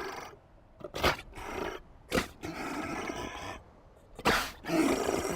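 An animal calling repeatedly: a series of short sharp cries alternating with longer drawn-out calls.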